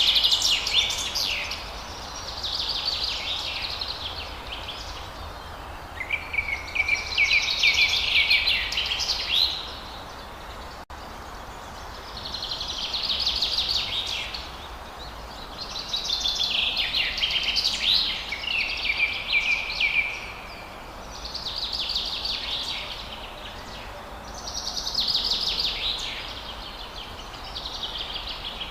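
Forest songbird singing high, trilled phrases of two to three seconds, each repeated every three to four seconds, over a steady background hiss.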